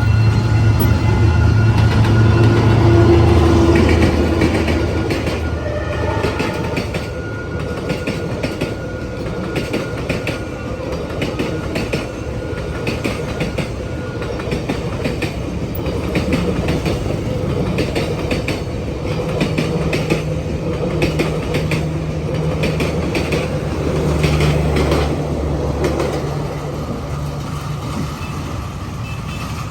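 A Vietnam Railways train passing: the diesel locomotive's engine runs loud at first, then the wagons' wheels click steadily over the rail joints, with a low engine drone coming back about two-thirds of the way through.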